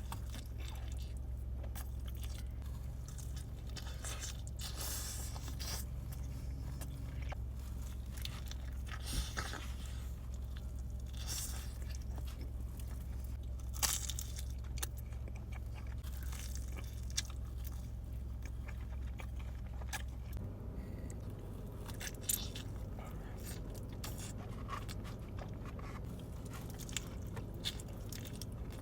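Close-miked eating of pepperoni pizza: scattered bites and crunchy chewing of the crust, with wet mouth sounds, over a steady low hum.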